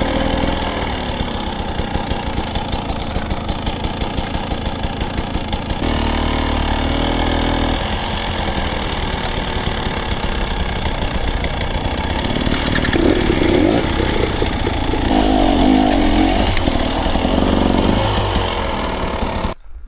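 Dirt bike engine running at low revs in a steady chug. It picks up under short bursts of throttle about six seconds in and again from about thirteen seconds, then cuts off suddenly near the end.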